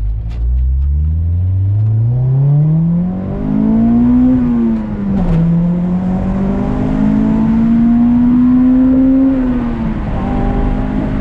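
Acura Integra GS-R's B18C1 1.8-litre VTEC four-cylinder, breathing through an aftermarket Yonaka exhaust, pulling hard up through the revs. The engine pitch climbs steadily for about four seconds and drops at a gear change about five seconds in. It then holds high and slowly rising, and dips again near ten seconds in.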